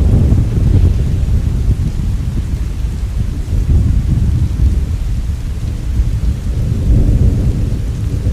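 Long roll of thunder over steady rain: a deep rumble that rolls on and swells again about seven seconds in.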